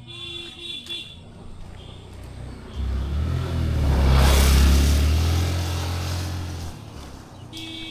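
A motor vehicle passing close by on the road: its low engine rumble and road noise build from about three seconds in, peak in the middle and fade away again.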